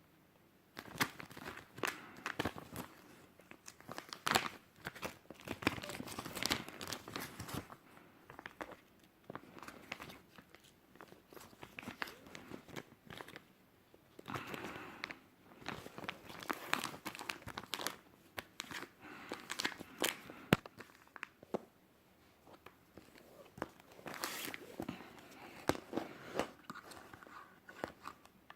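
Plastic packaging and bags crinkling and rustling as purchases are handled and unwrapped, with sharp crackles and small clicks coming in irregular bursts.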